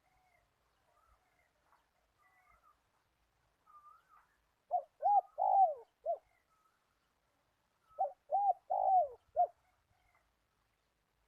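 A dove cooing: two phrases of four or five rolling coos, the second starting about three seconds after the first ends, with faint chirps of other birds behind.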